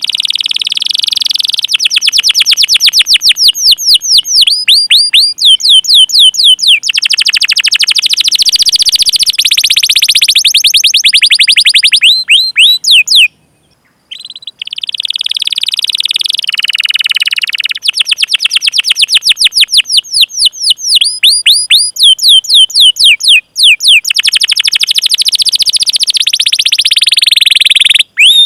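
Domestic canary singing a long, fast song of rapidly repeated chirps and rolling trills, with a brief pause about halfway through.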